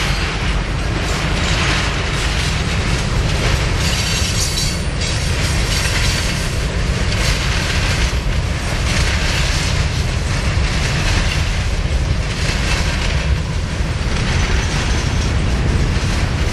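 Freight train cars rolling past on steel rails: a steady, loud, heavy rumble of the wheels, with irregular clicks and knocks throughout.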